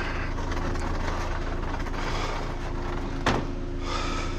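A vehicle engine idling with a steady hum, and a single sharp knock about three seconds in.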